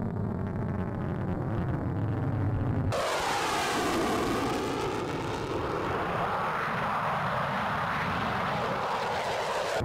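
Jet aircraft engine noise: a low rumble, then after an abrupt cut about three seconds in, a jet passing with a whine that slides down in pitch.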